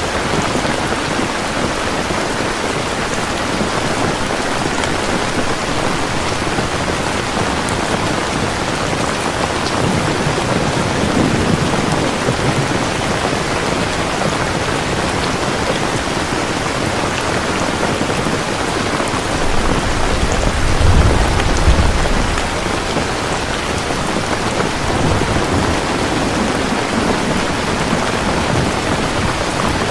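Heavy rain falling steadily in a thunderstorm, with low rolls of thunder: a soft rumble about ten seconds in and a louder one peaking about twenty-one seconds in.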